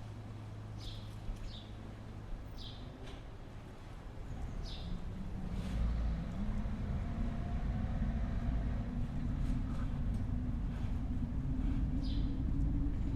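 Short, high, falling bird chirps, a few of them, over a low rumble that swells from about four seconds in and then holds steady.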